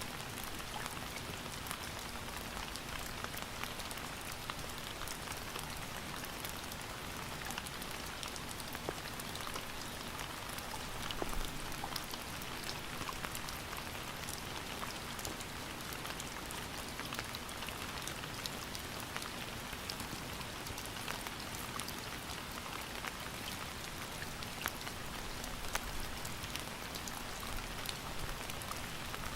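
Steady rain falling on a surface, a dense even hiss dotted with the ticks of individual drops, swelling slightly about eleven seconds in.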